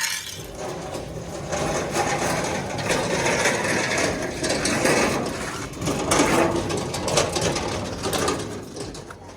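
Mechanical rattling and clattering: a dense run of small metal knocks that swells and dips for several seconds.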